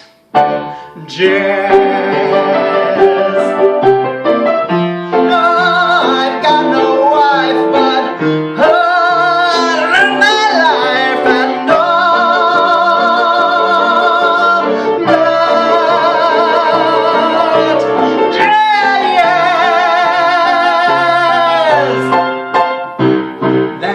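A man singing a show tune to piano accompaniment, holding long notes with vibrato as the song builds to its ending.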